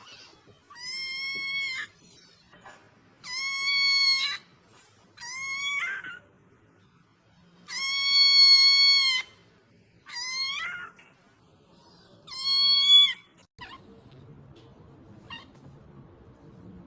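A cat meowing six times, each meow about a second long and steady in pitch, with short pauses between. The meows stop near the end, leaving a faint rustle.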